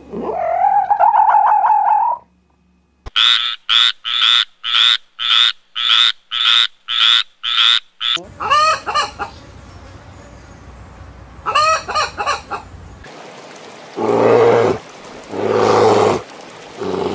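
A string of different animal calls, one after another. First comes a warbling call, then about a dozen evenly spaced calls at roughly two a second, a few quick chattering calls, and two longer, lower calls near the end.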